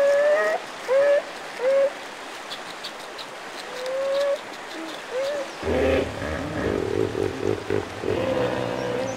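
North American beaver squealing: about five short, whining calls over running water. About halfway through, a hippopotamus's deep bellowing grunts take over.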